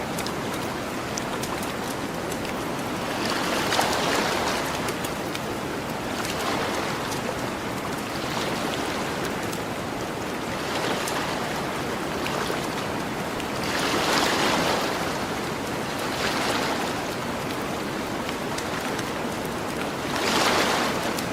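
Ocean waves washing onto a beach: a steady hiss of surf that swells into a louder wash every few seconds, with the biggest surges about four, fourteen and twenty seconds in. Faint small crackles of a campfire tick through it.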